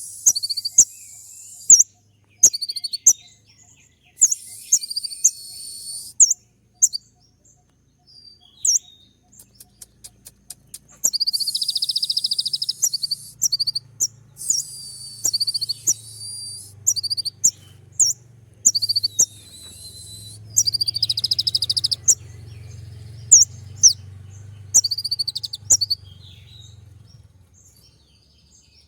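Kolibri ninja (purple-throated sunbird) singing its sharp 'tembak' song: high-pitched bursts of rapid, dense trills and chirps, each a second or two long, broken by sharp single ticks and short pauses.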